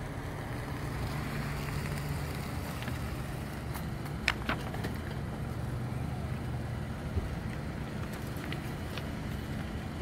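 A small sedan's engine running at low speed as the car pulls up and parks, with a steady low hum and wind noise on the microphone. Two sharp clicks come about four seconds in, and another near seven seconds.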